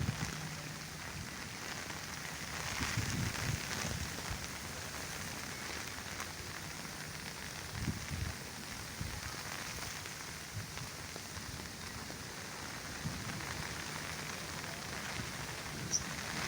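Steady rain falling, with a few brief louder patters now and then.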